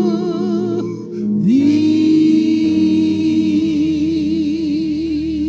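Gospel singing: a voice holds a long note with vibrato that breaks off about a second in, then slides up into another long held note whose vibrato widens, over sustained instrumental chords.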